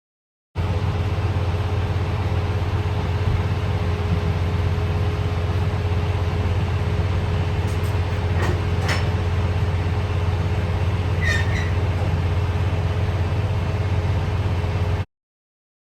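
Semi-truck's diesel engine running, a steady low rumble with a steady hum heard inside the cab, with a couple of faint clicks and a short chirp about two-thirds of the way in. It starts suddenly just after the start and cuts off suddenly near the end.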